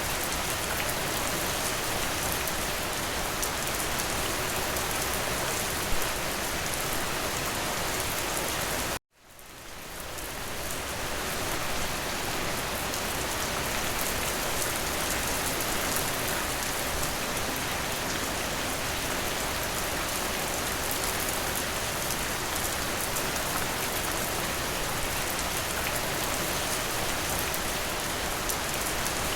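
Steady rain falling, an even hiss with patter of drops. About nine seconds in the rain cuts out abruptly for a moment, then fades back up over a second or two.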